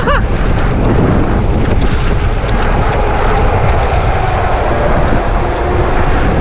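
Wind rushing over the microphone with the steady rumble of a motorcycle riding along at cruising speed.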